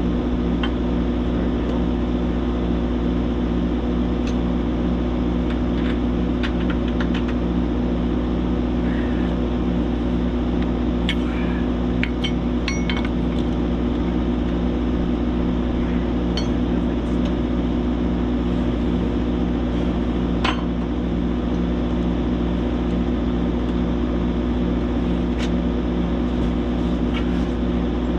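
An engine idling steadily, with scattered metallic clinks and knocks of tools and parts being handled.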